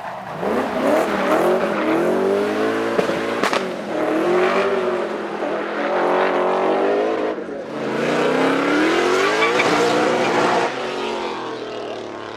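A race car's engine revving hard, the revs climbing and falling several times, with its tyres skidding on the tarmac. The engine drops away near the end.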